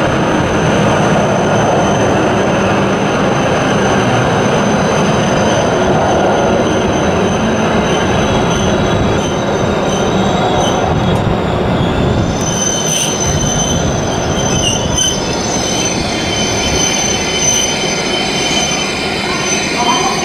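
W7-series Hokuriku Shinkansen train running slowly past on the station approach, a steady rumble of the cars going by with a thin, high, steady wheel squeal over it that grows stronger about halfway through.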